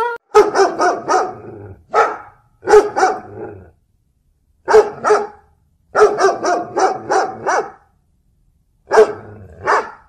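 Dog barking repeatedly in short runs of one to several sharp barks, with gaps of about a second between the runs.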